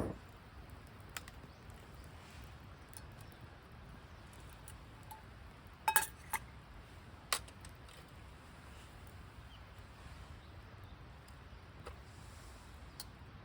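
A handful of light, sharp clinks and clicks, like small metal camp gear being handled, over a quiet background. The loudest is a quick double clink about six seconds in, with another a second later.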